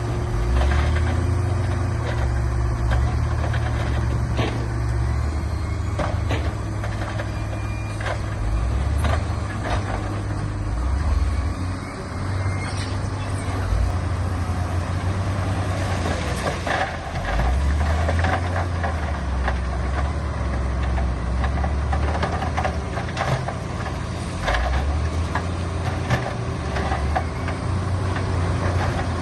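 Heavy diesel earthmoving machinery running under changing load, its low engine note rising and falling, with scattered clanks and knocks.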